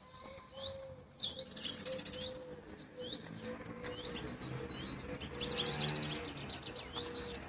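Small birds chirping over and over in short, quick high calls, with a steady lower call and some low held notes. Between them come patches of rasping scrapes that fit a knife carving wood.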